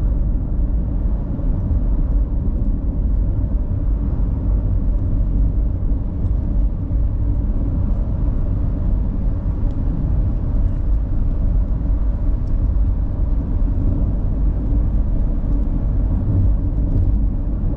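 Car driving uphill under power: a steady, low rumble of engine and road noise.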